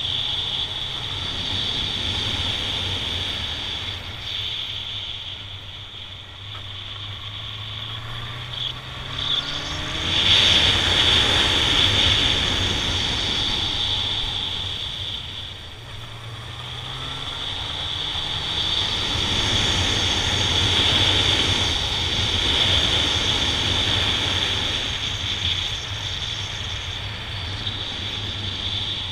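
Honda Nighthawk 750's air-cooled inline-four engine pulling the bike along with wind rushing past. The engine pitch rises twice, about eight seconds in and again around sixteen seconds, as the bike accelerates, and the sound grows louder after each rise.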